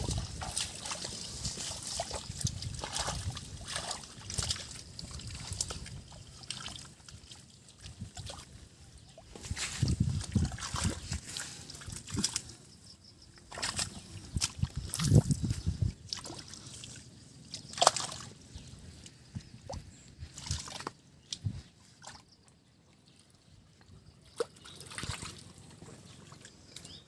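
Shallow muddy water sloshing and splashing irregularly as hands grope through a flooded drain for catfish, with a few louder splashes in the middle and a quieter spell near the end.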